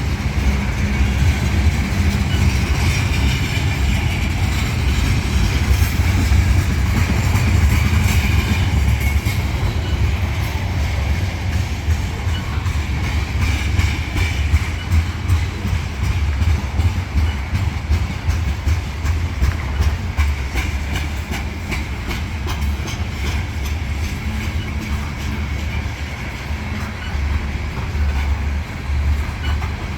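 Freight train cars rolling past: a steady low rumble of wheels on rail with repeated clicking over rail joints, the clicks coming thicker in the second half.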